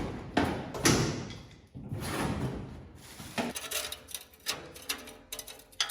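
Knocks and scraping clatters of hand work on parts and tools, then a quick run of light clicks and rattles in the second half.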